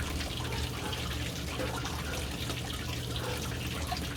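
Water pouring steadily into a household water tank, a continuous splashing with a low rumble underneath.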